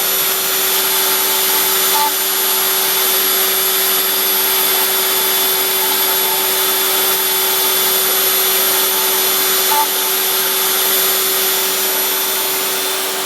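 Homemade CNC machine running: a steady high-speed motor whine over a constant hiss, with two faint brief tones, one about two seconds in and one near ten seconds.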